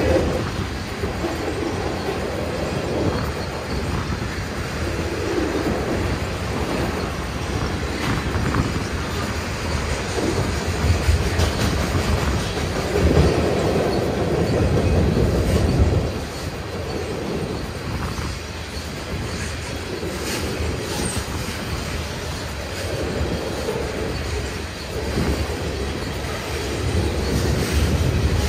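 Freight train tank cars rolling across a steel truss railway bridge: a steady rumble and clatter of steel wheels on the rails, swelling loudest about halfway through.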